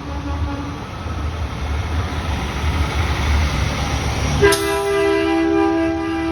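Low engine rumble of a passing truck, then about three-quarters of the way in a truck air horn sounds a steady two-note chord that is still going at the end.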